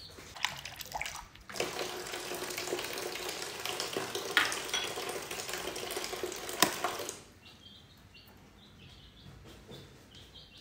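Running water filling a container for about five and a half seconds, starting about a second and a half in and cutting off abruptly near the seventh second, with a few knocks just before it. Short high bird chirps repeat before and after.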